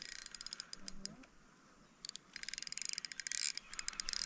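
Fishing reel clicking in fast runs of ratchet-like ticks while a big carp is played on a light rod, with a pause of about a second in the middle.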